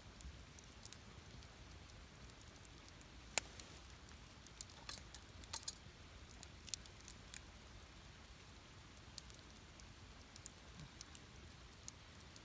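Campfire crackling faintly: scattered sharp pops and snaps of burning wood, the loudest about three and a half seconds in, with a cluster of smaller pops just after, over a low steady hiss.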